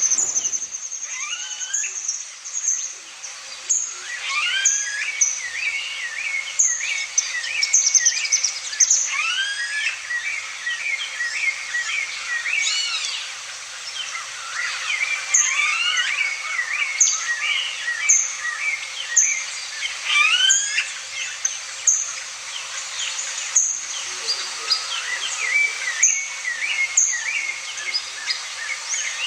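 Several birds calling and singing at once: rising whistled and chirping phrases, with short, high, sharp notes repeated about once a second.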